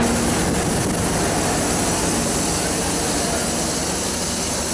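Steady running noise of a DEMU train standing at the platform with its diesel engine running.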